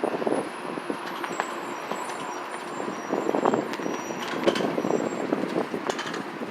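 Road traffic running on a city street, with scattered clicks and rustles over it.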